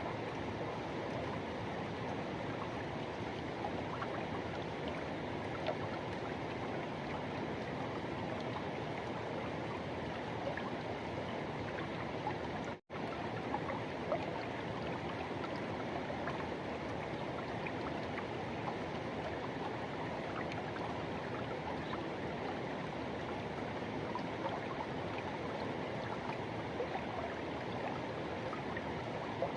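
Forest river rushing steadily over its bed, a continuous even wash of flowing water. It drops out for an instant about halfway through.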